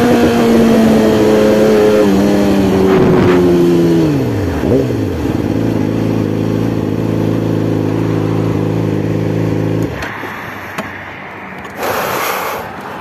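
Yamaha R6 inline-four sport-bike engine winding down off the throttle, its pitch falling steadily as the bike slows, then settling to a steady idle, which stops abruptly about ten seconds in. A short hiss follows near the end.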